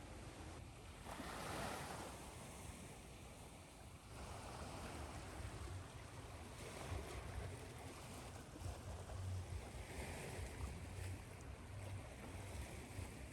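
Ocean surf: waves washing in as a steady rushing noise with a low rumble beneath, swelling about a second in and again around four seconds in.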